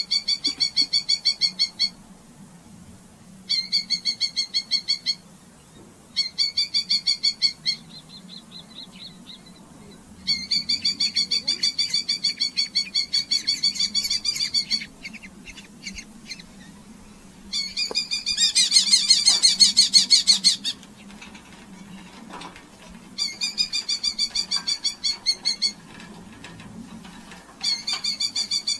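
Red-footed falcon giving rapid chattering call series, about seven bouts of quick repeated sharp notes separated by short pauses, the loudest and most frantic a little past the middle.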